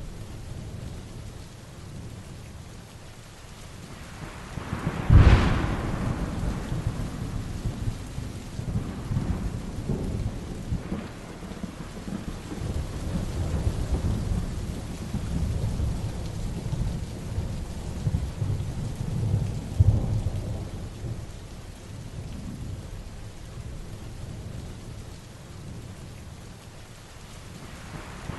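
Heavy rain falling steadily with rolling thunder rumbling underneath. A sharp thunderclap about five seconds in is the loudest moment, and a smaller clap comes near twenty seconds.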